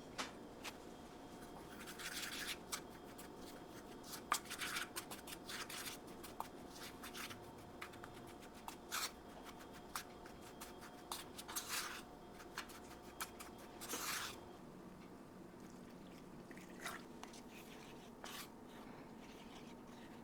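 Faint, irregular scraping and rubbing strokes with small clicks and taps from food preparation with kitchen utensils, over a low steady hum. The strokes thin out after about fourteen seconds.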